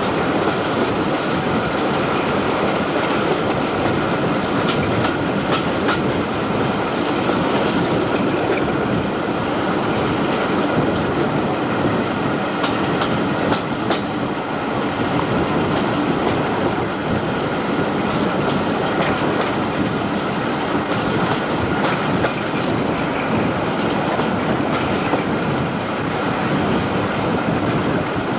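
Passenger train running along the line, heard from aboard: a steady rumble of wheels on rail with scattered clicks from the track.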